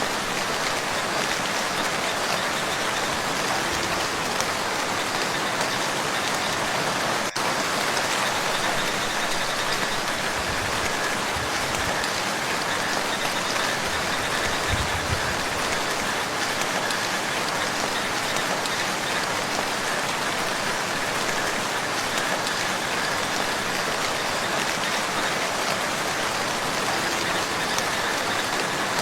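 Steady rain falling on a lake's surface: a dense, even patter with no let-up, broken only by a momentary dropout about seven seconds in.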